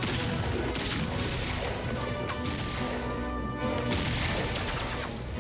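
Battle sound effects: repeated gunshots and crashing impacts, with an orchestral film score underneath.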